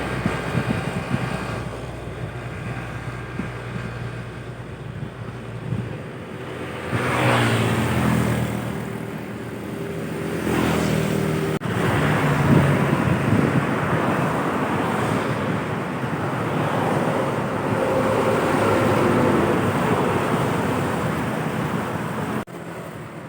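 Heavy trucks and buses passing one after another on a road, engines and tyre noise swelling and fading as each goes by. The sound breaks off abruptly twice.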